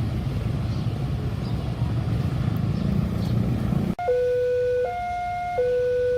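A low, steady rumble, then, after an abrupt cut about four seconds in, an electronic two-tone warning alarm that alternates between a high and a low tone, each held for about three-quarters of a second.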